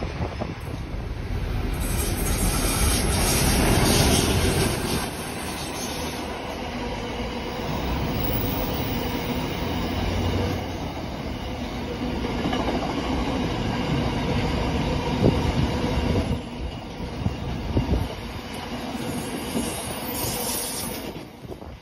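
Freight train wagons rolling past close by: a steady rumble of steel wheels on rail, with occasional sharp clicks as wheels cross rail joints.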